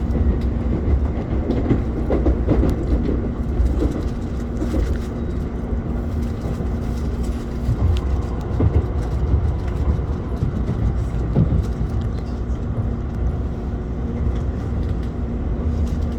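Shinkansen running noise heard from aboard the train: a continuous low rumble of the running gear with a steady hum that fades out for several seconds in the middle and returns near the end.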